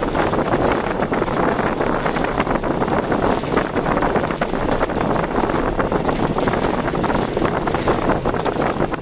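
Steady, dense rush of wind and road noise from a car driving through typhoon weather, threaded with a constant fine crackle.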